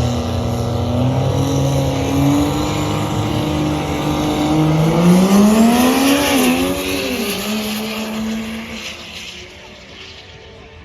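Diesel drag-racing trucks under full throttle down the strip. The engine pitch climbs, then bends down as they pass about six seconds in, and the sound fades away.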